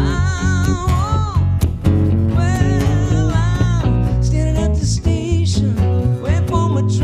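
Live band playing an instrumental break: a lead line of sustained notes that bend and waver, over steady bass and drums with cymbal strokes.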